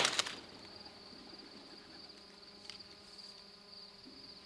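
An insect trilling steadily at a high pitch. In the first half second the echo of a shotgun blast fades away.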